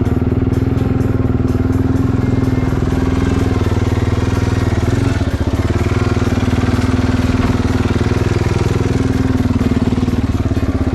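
Motorcycle engine running at a steady speed, a loud, even drone with a rapid pulse.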